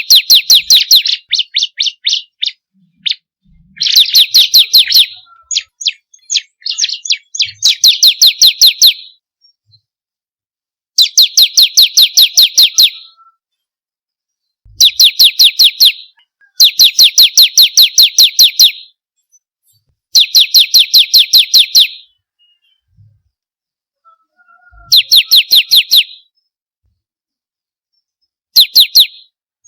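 Bar-winged prinia (ciblek kristal) singing in repeated bursts. Each burst is a rapid, even string of high, sharp chirps, about six a second, lasting one to two seconds, separated by short pauses.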